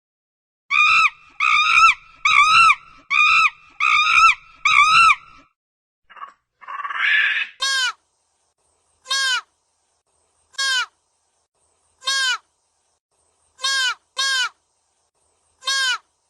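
Animal calls: seven short, high, rise-and-fall cries in quick succession, then after a pause a noisy squawk and a string of short falling squeals about every second and a half.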